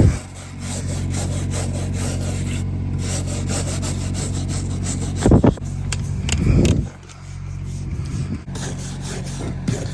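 Rough, steady scrubbing of grimy metal over a steady motor hum, typical of a power-driven wire brush cleaning old caked-on dirt off a truck part. It pauses briefly twice in the second half.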